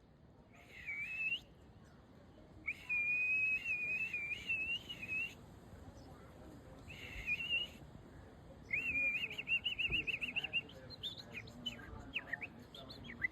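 A person whistling: four short tonal whistles with a slight wobble, the last a fast warbling trill, breath hiss audible with each. Near the end, short small-bird chirps follow.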